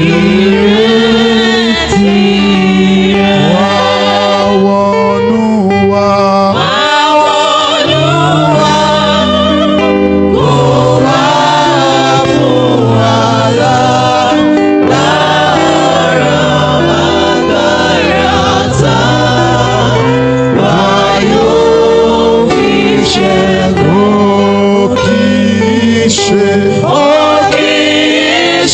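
Choir and congregation singing a gospel hymn with instrumental backing, loud and steady throughout.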